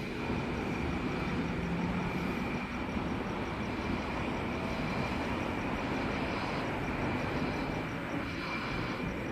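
Sydney Trains K-set double-deck electric train pulling out of the platform: a steady rumble of wheels and motors with a thin, steady high tone over it.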